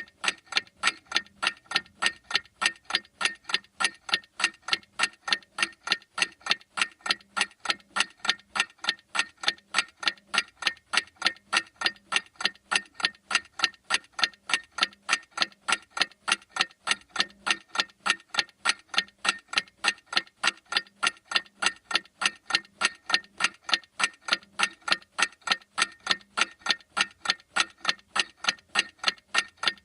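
Clock ticking steadily in an even, rapid rhythm of about three sharp ticks a second.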